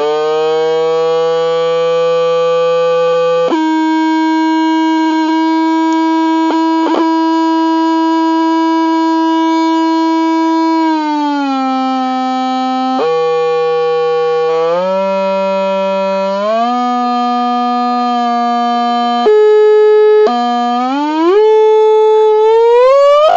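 A sustained electronic synthesizer-like tone holding long steady notes with buzzy overtones. About halfway through it slides down, then climbs in a series of upward steps and glides toward the end.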